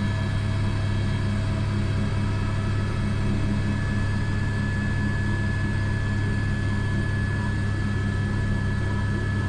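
Airbus AS350 B3 (H125) helicopter heard from inside the cockpit: the steady drone of its single turboshaft engine, gearbox and rotors, with a thin, steady high whine over it.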